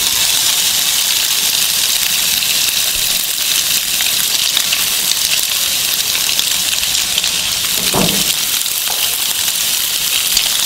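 Chopped onion frying in a little oil in a nonstick pan as flaked boiled fish is tipped in: a steady sizzle with fine crackling. A brief knock about eight seconds in.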